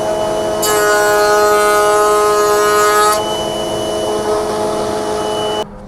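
Router table running with a steady whine, its bit cutting across the grain of a wooden board from about half a second to three seconds in, then spinning free. The sound cuts off abruptly near the end.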